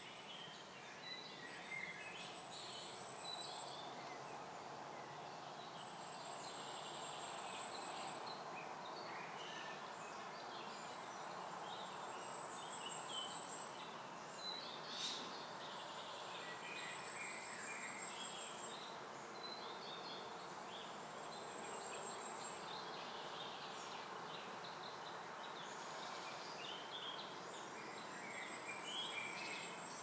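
Outdoor birdsong: a small bird repeats a high, thin, trilled phrase every few seconds, with other scattered chirps, over a steady background hum. A few sharp ticks stand out, one about halfway through.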